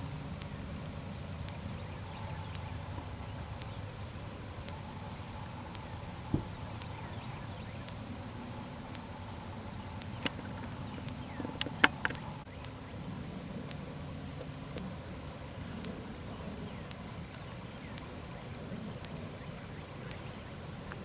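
Steady chorus of insects: two unbroken high-pitched buzzing tones over a low rumble, with a few sharp clicks about halfway through.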